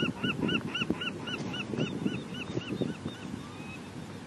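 A bird calling a rapid, even series of short rising-and-falling notes, about three a second, that fade away about three seconds in, over low rustling.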